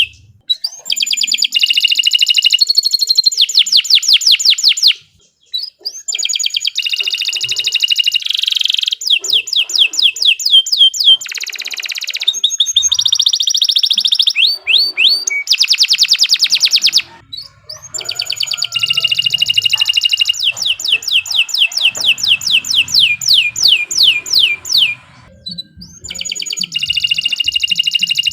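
Domestic canary singing full, vigorous song: long bouts of rapid trills and fast-repeated chirping notes, broken by brief pauses.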